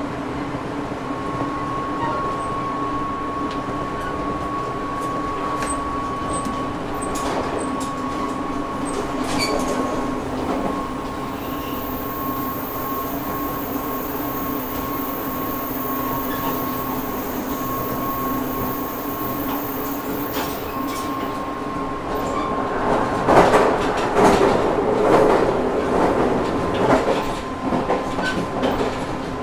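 JR Shikoku 8000 series electric limited-express train running at steady speed, heard from inside the car: a steady running hum with a constant high tone. From about 23 s in, wheel clatter and rattling knocks grow louder and more frequent.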